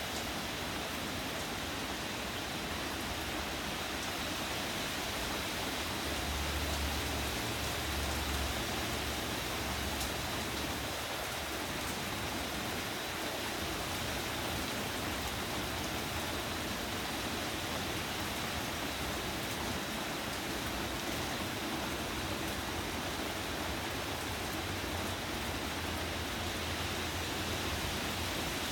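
Steady rain falling, with a low rumble about six to eight seconds in.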